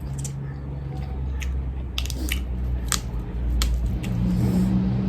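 Close-up eating sounds from a mouthful of rice and chicken curry: wet chewing with sharp mouth clicks and smacks about every half second to second. A low motor hum grows louder toward the end.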